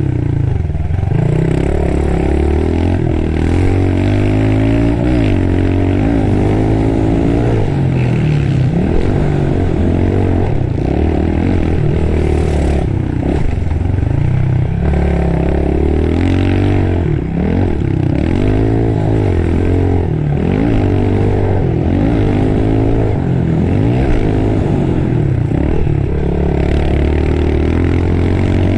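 Pit bike engine being ridden hard, its revs climbing and dropping again every second or two as it accelerates, shifts and backs off around a dirt track.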